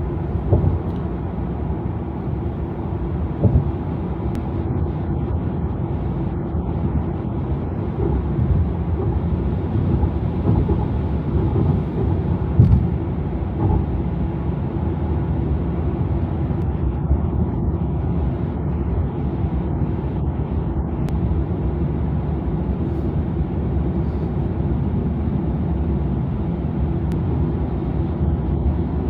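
Steady tyre and road noise of a Tesla electric car cruising at highway speed, heard inside the cabin as a low, even rumble with no engine note, with a few brief thumps.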